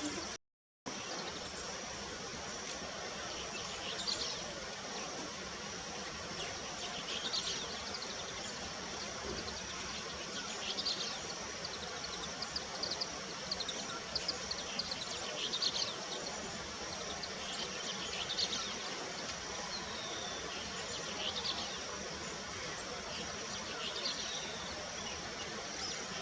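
A songbird sings short, rapid high phrases every two to three seconds over a continuous high-pitched insect drone.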